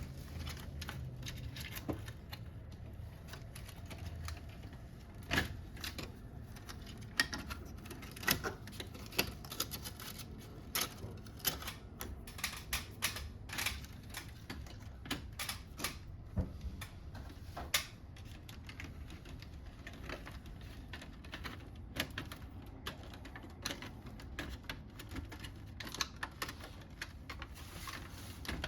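Irregular sharp clicks and taps of plastic parts, clips and hand tools being handled as a Fujitsu Nocria wall-mounted air conditioner is taken apart, coming thickest in the middle stretch.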